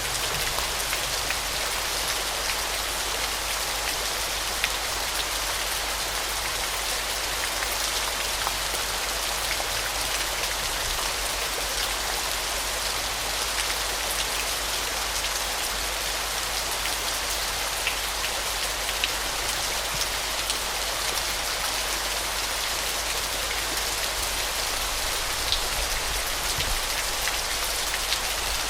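Waterfall: a steady hiss of falling water with faint scattered splashes of droplets.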